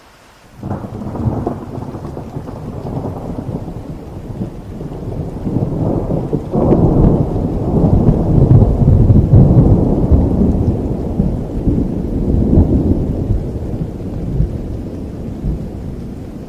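A thunderclap in a rainstorm: a sudden crack about half a second in, then a long low rumble that builds to its loudest in the middle and slowly dies away over steady rain.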